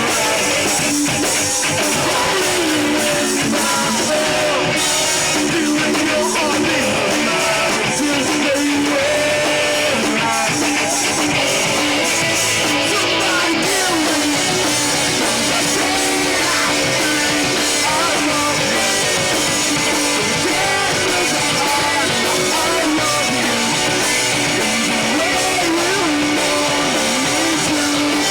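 Live rock band playing at full volume: guitars strumming over a drum kit, with some singing.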